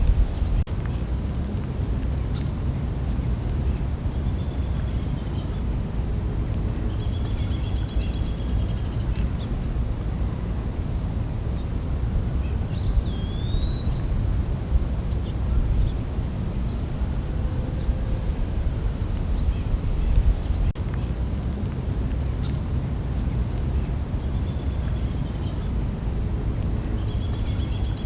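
Night forest ambience: crickets chirping in a regular pulse of about two to three chirps a second over a steady high insect trill. Brief calls from a bird or other animal come in pairs a few times, over a low rumbling background.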